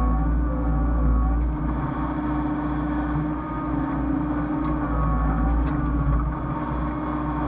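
Hyundai excavator's diesel engine running steadily, with a whine that rises and falls in pitch as the hydraulics work.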